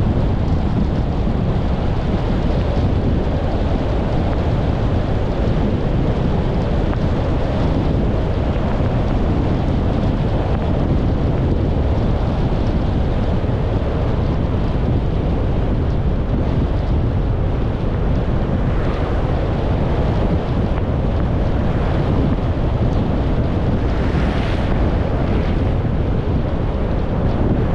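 A car driving: steady low road rumble with wind noise on the microphone, and a few short swells of hiss in the last third.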